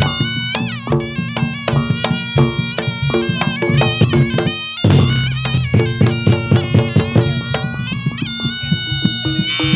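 Reog gamelan accompaniment for jathilan dance. A loud, reedy slompret (Javanese shawm) plays a sliding, ornamented melody over regular kendang drum strokes and a steady low tone.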